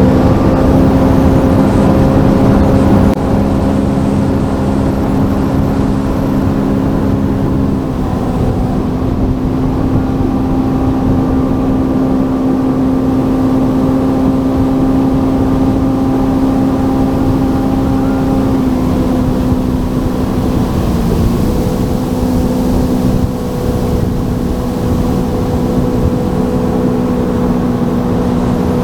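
Sea-Doo FishPro jet ski engine running steadily at cruising speed, with the rush of wind and water over the hull. The engine note shifts slightly about eight seconds in and again around twenty seconds in.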